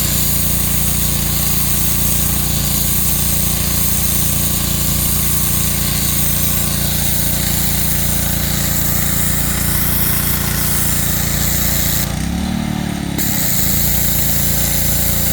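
Gas-engine pressure washer running steadily, its engine drone under the hiss of the spray; the sound briefly changes about twelve seconds in, then carries on.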